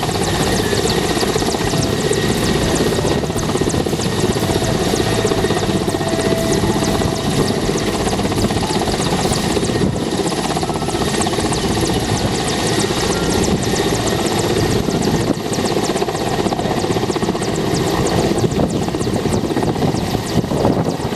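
Helicopter running loud and steady, its rotor beating in rapid even pulses, as at takeoff.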